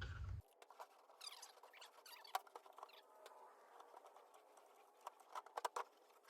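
Near silence with faint scattered clicks and a few short squeaky glides, a sharper click about two and a half seconds in, and a quick cluster of clicks near the end.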